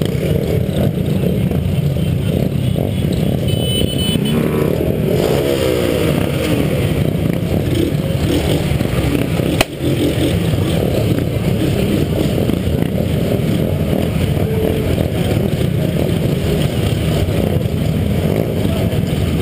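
Motorcycle engines running loud and steady, with rising and falling revs about four to six seconds in.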